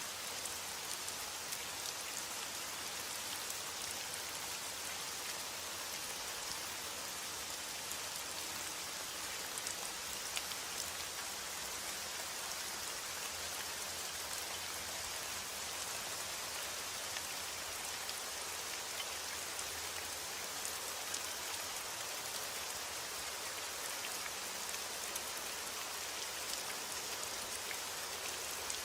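Steady rain falling on a surface, a dense hiss of drops with scattered sharper individual drop ticks.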